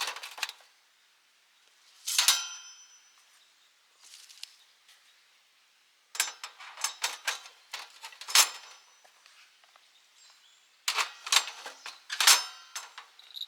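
Metal clinking and clanging: groups of sharp knocks, some leaving a brief metallic ring. They come about two seconds in, in a longer run from about six to nine seconds, and again from about eleven to thirteen seconds, with short quiet gaps between.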